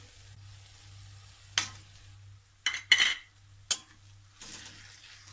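Onions and green chillies sizzling in oil in a kadhai with a low, steady frying hiss, while metal utensils clink and scrape against the pan: four sharp clinks in the middle, the loudest about three seconds in, then a short scrape of stirring near the end.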